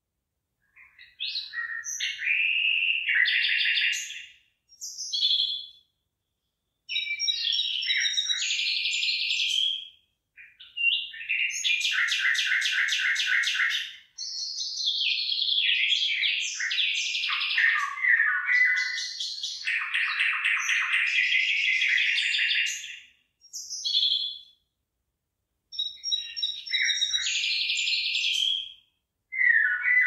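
A songbird singing long, varied phrases of chirps, whistles and fast trilled notes, broken by short pauses.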